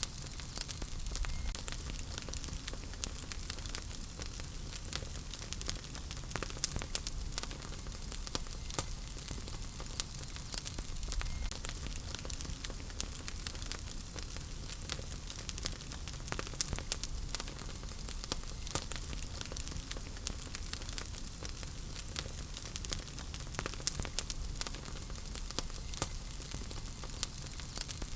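Wood fire burning in a fireplace, a steady low rumble and hiss with frequent sharp crackles and pops from the burning logs.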